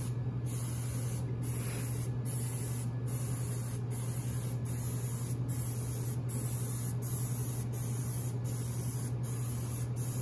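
Aerosol non-stick spray can hissing in a long run of short sprays, a little more than one a second, as cookie cutters are coated so the mixture releases easily. A steady low hum sits underneath.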